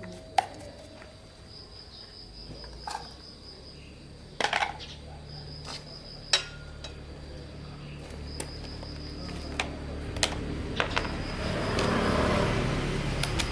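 Sporadic sharp metallic clinks and taps of hand tools and engine parts being handled. A high thin whine comes and goes behind them, and a low rumble with some hiss grows louder near the end.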